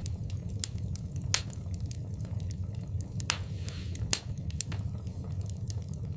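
Wood fire burning in a fireplace: a steady low rumble of flames, with irregular sharp crackles and pops of burning logs, a few louder pops scattered through.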